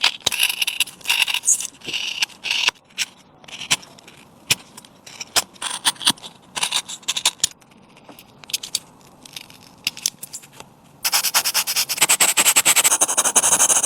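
Hand tools scraping wood in short, separate strokes, as in carving a small wooden figure. About eleven seconds in, the strokes turn into a fast, dense run of scraping that lasts a few seconds and stops abruptly.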